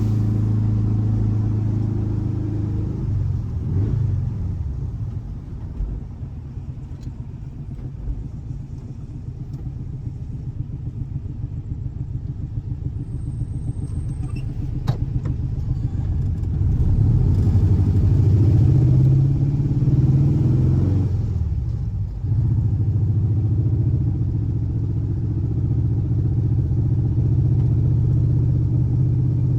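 Air-cooled 1584 cc flat-four boxer engine running steadily, then falling to a lower, quieter idle about three seconds in. Past the middle the revs climb and are held higher, dip briefly, and settle into a steady run to the end.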